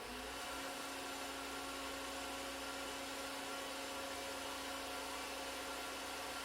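Fire Lion foam pump running under test, heard from about 15 feet away: a steady, even whirring hum with a constant tone.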